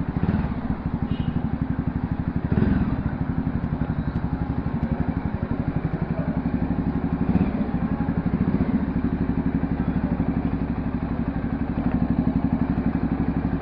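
Voge 300R motorcycle's single-cylinder engine running steadily at low revs with an even pulsing beat, with a brief knock about two and a half seconds in.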